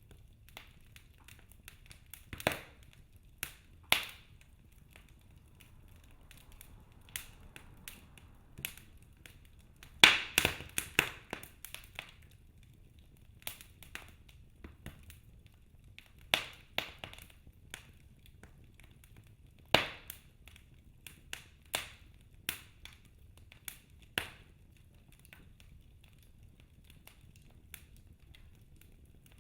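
Wood fire crackling: irregular sharp pops and snaps, with a dense flurry of them about ten seconds in, over a faint low rumble.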